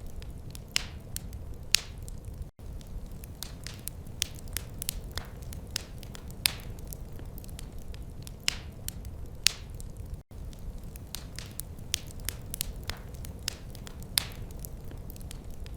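Fireplace fire crackling: irregular sharp pops and snaps over a steady low rumble. The sound cuts out for an instant twice.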